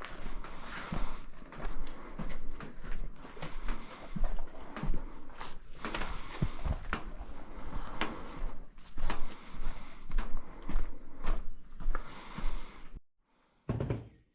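Footsteps and irregular crunches and knocks, over a steady high-pitched whine. Everything cuts off abruptly about thirteen seconds in.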